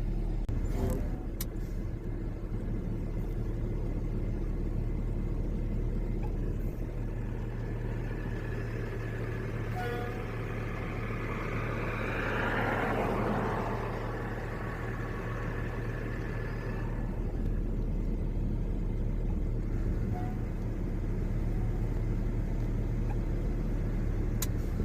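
Tack truck (asphalt distributor) engine running steadily while the truck drives and sprays tack coat, with a swell of rushing noise about halfway through and a few sharp clicks near the start and near the end.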